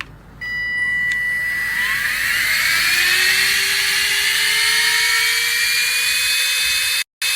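Cordless handheld vacuum cleaner switched on: its motor whine rises as it spins up over about two seconds, then runs steadily at full speed. It is the cheaper factory-made unit, rated 120 W.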